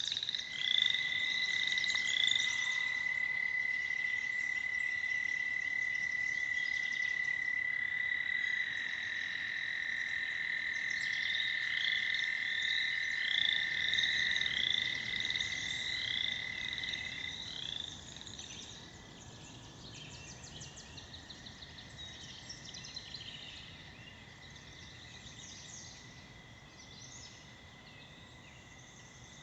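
American toads trilling at a pond: one long, steady, high trill, joined about a third of the way in by a second, slightly lower trill. Both stop at about the same time, a little past halfway, leaving a fainter trill. Short, rapidly repeated higher calls come and go over the chorus.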